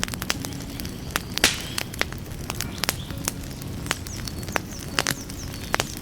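Wood fire burning, with irregular sharp crackles and pops over a low steady rumble; one louder pop about one and a half seconds in, followed by a brief hiss.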